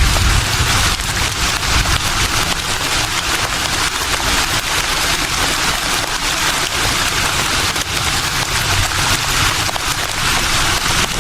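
Leaves rustling in a breeze: a steady, dense crackling hiss with little low rumble.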